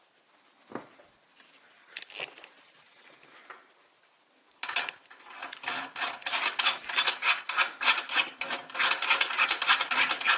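Metal parts of a Feuerhand 276 hurricane lantern clicking and rattling as they are handled. A couple of single clicks come first, then a long run of rapid metallic clicking starts a little before halfway.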